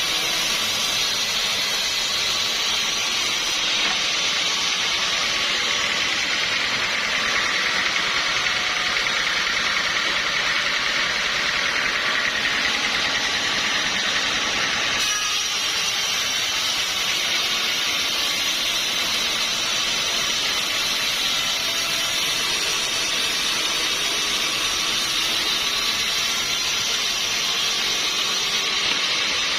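Sawmill saw running steadily through a log, a continuous loud mechanical hiss and whine; the tone shifts abruptly about halfway through.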